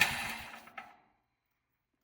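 A loud motor-driven machine noise stops at the start and dies away within about a second, followed by near silence.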